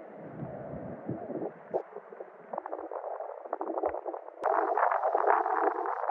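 Snowstorm wind buffeting the microphone, with crackling that jumps louder about four seconds in.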